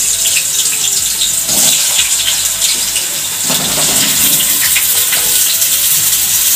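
Raw potato chunks sizzling as they are tipped into hot oil in a kadai: a steady frying hiss with a few soft knocks of pieces landing.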